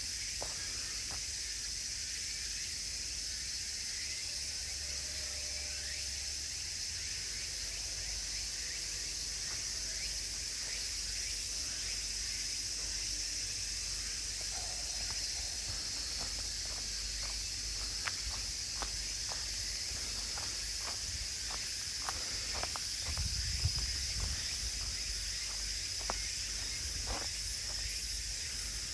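Steady, dense chorus of insects shrilling high in pitch, with footsteps on a woodland path clicking in it, mostly in the second half.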